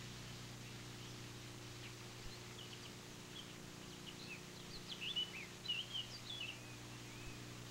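Small birds chirping and twittering in a quick run of short, high calls, busiest a little past the middle, over a steady low hum.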